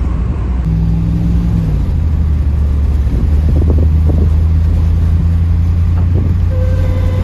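1984 Pontiac Trans Am's V8 engine pulling the car up to speed, heard from inside the car; its low note rises in steps over the first few seconds, then holds steady.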